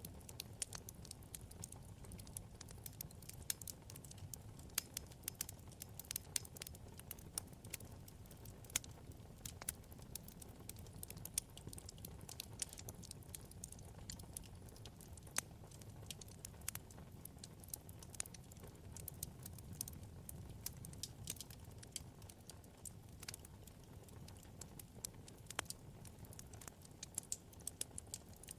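Wood fire burning in a fireplace, crackling with many small irregular pops and snaps over a low, steady rumble of flame.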